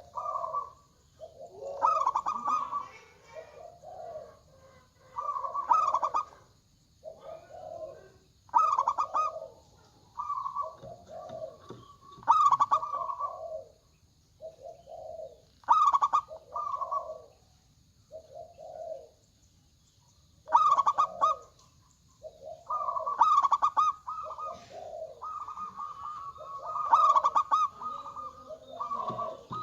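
Zebra doves (local perkutut) cooing, their rhythmic phrases repeated every few seconds with short pauses between them.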